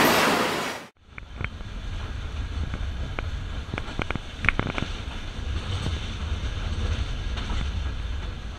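Moving mountain-railway train heard from a camera held outside the carriage. Loud rushing noise cuts off abruptly about a second in, giving way to a low rumble with wind on the microphone and a few sharp clicks.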